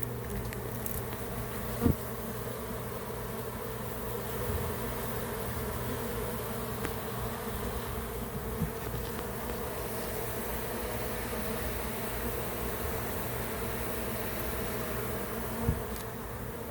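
A newly hived colony of honeybees buzzing steadily in and around their hive box. A brief knock sounds about two seconds in and another near the end.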